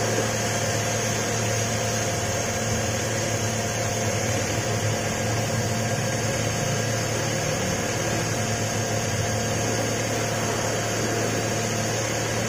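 Skoda A4 car engine idling steadily with an even low hum, on a test run after its water pump and timing belt were replaced.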